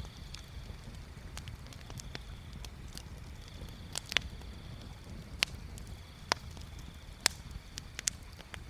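Wood bonfire crackling: irregular sharp pops and snaps, several of them loud, over a low steady rumble.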